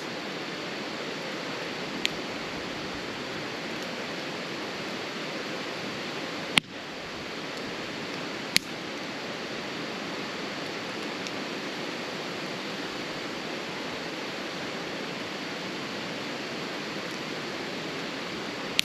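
Wood campfire burning, with three sharp pops of crackling wood about two, six and a half and eight and a half seconds in, over a steady rushing noise.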